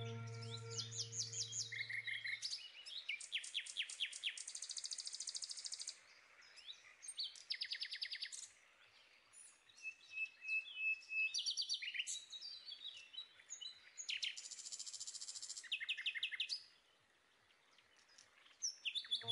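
Songbirds singing: fast high trills and runs of quick repeated chirps, in several bouts with short pauses between them. A low held music note fades out over the first two or three seconds.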